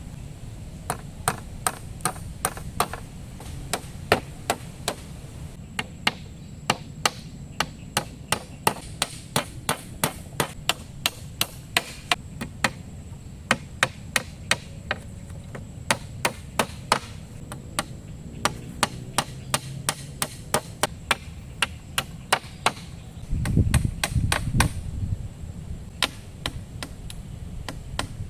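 Steady, rapid chopping strikes on wood, about two to three blows a second, with a brief low rumble near the end.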